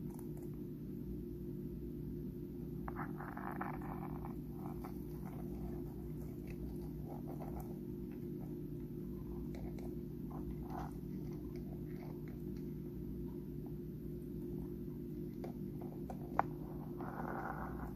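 Pet crab crunching and picking at dried shrimp: scattered small clicks and crackles, with a longer crackly stretch about three seconds in and another near the end, and one sharp click shortly before that. A steady low hum runs underneath.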